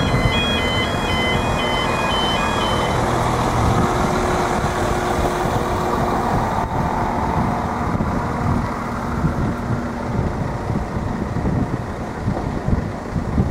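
Level crossing warning alarm sounding a two-tone warble, which stops about three seconds in, over the rumble of an Irish Rail 22000 class diesel multiple unit passing through. The train's engine and wheel noise then fades, leaving idling road traffic.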